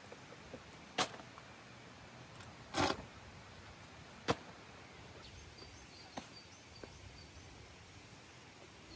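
A few sharp knocks or clicks, one about a second in and one about four seconds in, with a short scrape or rustle between them and a few lighter ticks later, over a faint steady background.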